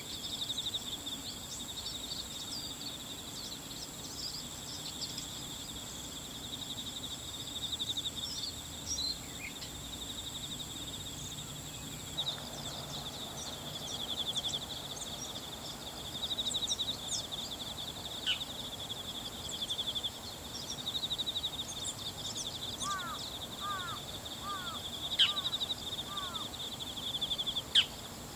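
Bull-headed shrike calling in short scattered notes, with a run of quick falling notes late on and a couple of sharp loud calls near the end. These are ordinary calls, not the shrike's autumn high-pitched territorial call, and they sit over a steady chorus of insects.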